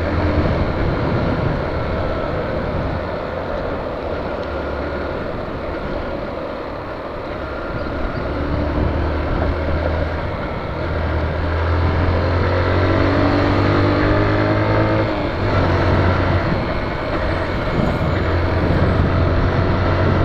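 Honda CG Fan 125 single-cylinder motorcycle engine running under way over a steady rush of noise. Its pitch climbs steadily from about eight seconds in and drops suddenly about fifteen seconds in, as at an upshift.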